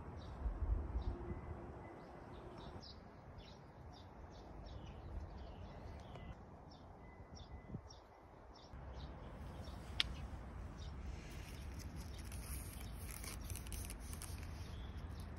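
Small birds chirping: short, high calls repeated about twice a second through the first half, faint over a low rumble. A single sharp click comes about ten seconds in.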